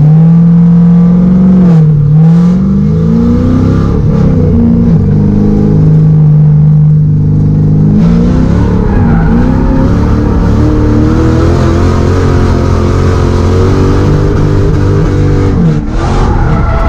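LS V8 engine of a Nissan S13 Silvia drift car running hard under throttle, its pitch rising and falling as the throttle is worked, with brief dips about two seconds in and again near the end. A rushing hiss joins the engine about halfway through.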